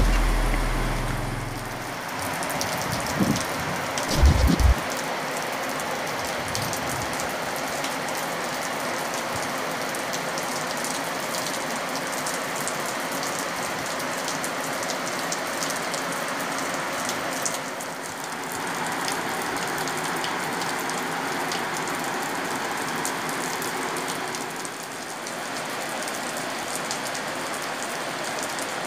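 Heavy rain falling steadily: a dense, even hiss. Music fades out in the first second or two, and two short low thumps come about three and four seconds in.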